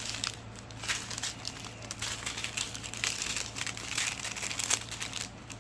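Thin plastic packaging crinkling and crackling irregularly as it is handled.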